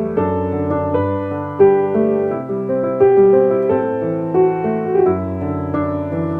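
Soft background piano music, a gentle melody of held notes.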